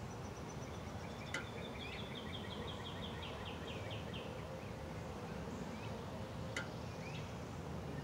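A bird singing a run of about a dozen quick, evenly repeated chirps that grow louder, between about two and four seconds in, over a steady background hiss. Two sharp clicks come about a second and a half in and again near the end.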